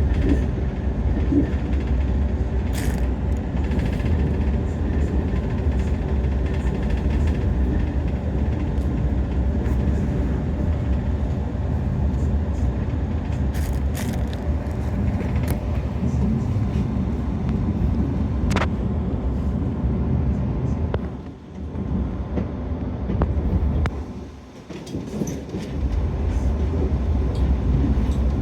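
Steady rumble of a passenger train running on the rails, heard from inside the coach, with scattered clicks from the wheels and track. The rumble briefly drops away twice, about 21 and 24 seconds in.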